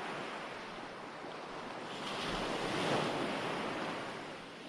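Recorded ocean waves washing ashore, one wave swelling to its loudest about three seconds in and then ebbing away.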